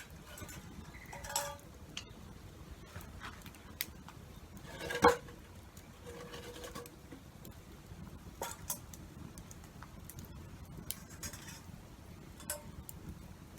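Metal objects clinking and knocking as they are handled, with one loud ringing clank about five seconds in and scattered lighter clicks.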